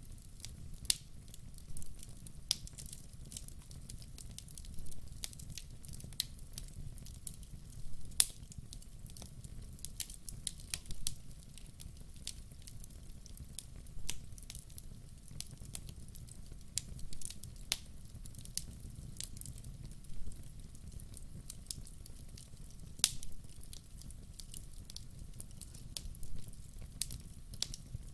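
Log fire crackling and popping: irregular sharp snaps over a low steady rumble of the burning, with a few louder pops.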